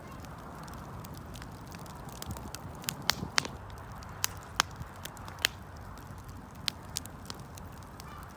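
Wood fire burning with a steady hiss, and scattered sharp crackles and pops from the burning wood, most of them in the middle of the stretch.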